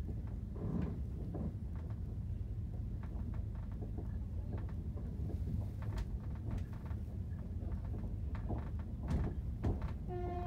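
Passenger train running, heard from inside the carriage: a steady low rumble with irregular clicks and rattles. Near the end a steady pitched tone starts up.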